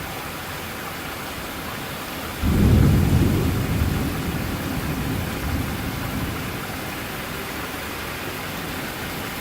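Steady heavy rain of a severe thunderstorm, with a deep roll of thunder breaking in suddenly about two and a half seconds in and fading away over the next four seconds or so.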